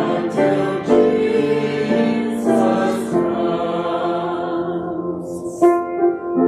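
A choir singing with piano accompaniment; near the end the voices drop away and the piano carries on alone.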